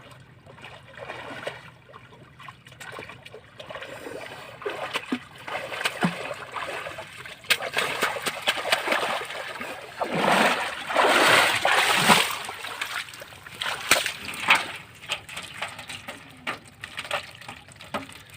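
Water splashing and sloshing, with scattered knocks, loudest for a couple of seconds about halfway through.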